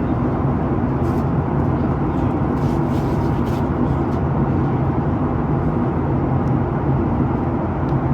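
Cabin noise of a Boeing 737-800 heard from a seat over the wing, by the CFM56-7B engine: a steady rush of engine and airflow noise with a low, even hum.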